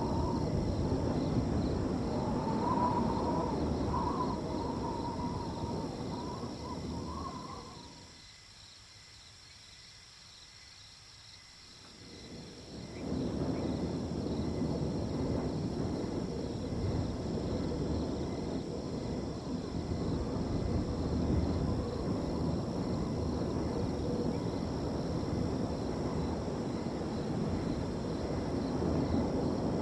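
Wind gusting across a field in a low rush that dies away for a few seconds about eight seconds in, then picks up again. Crickets trill steadily and high over it, and a wavering whistle rides on the wind in the first several seconds.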